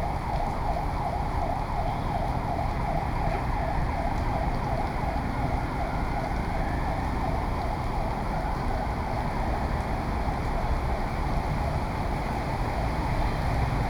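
Emergency-vehicle siren with a fast up-and-down warble, loudest in the first few seconds and fading after. It sounds over a steady rush of heavy rain and street traffic.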